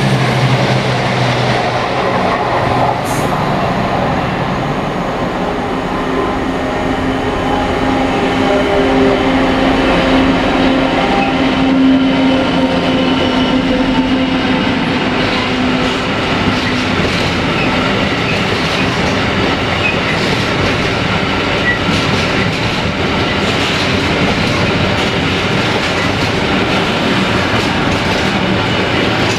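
A train rolling past at steady speed: a continuous rumble of wheels on rail with a drawn-out whine in the first half, giving way to a clickety-clack of wheels over rail joints in the second half.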